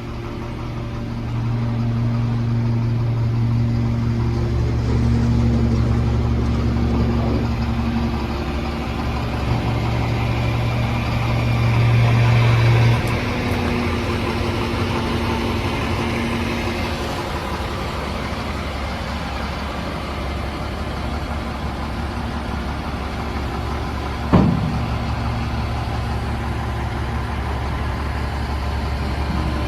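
CAT diesel engine of a 2000 Peterbilt 330 dump truck running steadily, its hum growing louder about a second and a half in and dropping back about 13 seconds in. A single sharp knock sounds late on.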